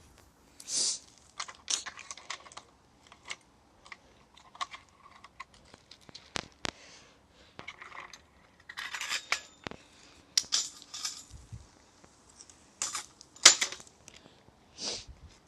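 Irregular clatter, knocks and short rustles of objects being handled and moved, with the sharpest knock about thirteen seconds in.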